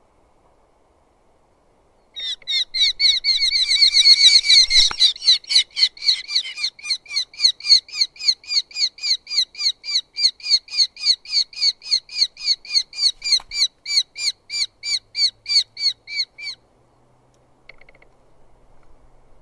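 Eurasian hobby calling from the nest: a long series of sharp repeated calls, about three a second, starting about two seconds in, dense at first, then evenly spaced, stopping suddenly some fourteen seconds later.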